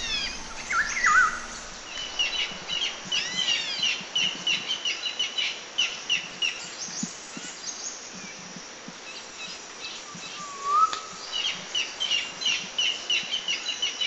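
Songbirds chirping and singing: runs of short repeated notes, about four a second, mixed with arching whistled notes over a steady background hiss. The calls thin out in the middle of the stretch and pick up again later.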